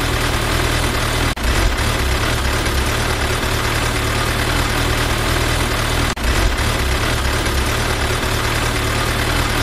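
Truck engine idling sound effect laid over the footage: a steady low rumble with a hiss on top. It drops out for an instant twice, once just over a second in and again about six seconds in.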